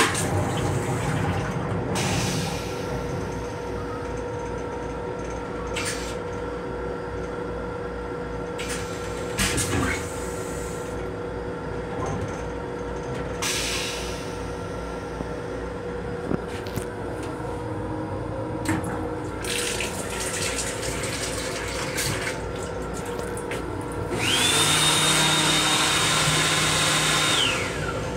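Steady running hum and rumble of a moving Metro-North M7 electric railcar heard inside its restroom, with scattered short rattles and knocks. Near the end a louder hiss with a high steady whine comes in for about four seconds, rising at the start and falling away at the end.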